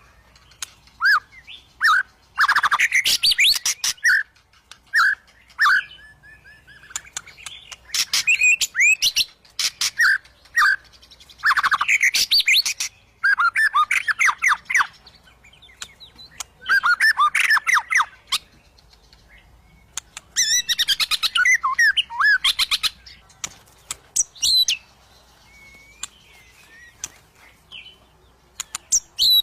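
White-rumped shama (murai batu) singing in an agitated, fighting mood: loud bursts of rapid, varied whistled phrases a second or two long, broken by short pauses and single clear notes.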